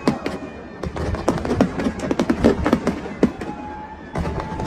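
Fireworks going off in a rapid, irregular series of cracks and pops over a low rumble, with music playing.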